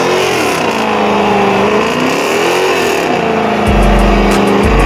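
Dodge Challenger engine revving up and down repeatedly during a smoky burnout, its pitch rising and falling several times. Deep bass notes of music come in near the end.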